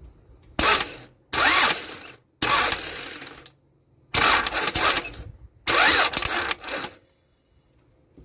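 1998 Toyota Camry's four-cylinder engine being cranked by the starter in five short bursts without catching, during spark checks on a no-start fault that points to failing coil packs.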